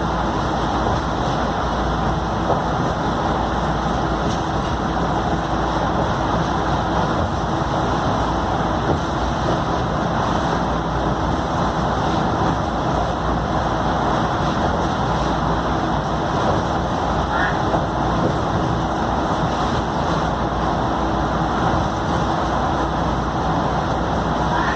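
Scania K310UD double-decker bus running at a steady pace, its five-cylinder diesel engine droning evenly under road and running noise.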